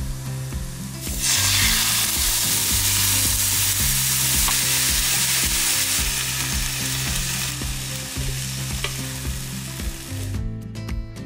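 Maitake mushrooms, joined partway through by canned tuna, sizzling in sesame oil in a frying pan over high heat. The sizzle swells about a second in and cuts off near the end.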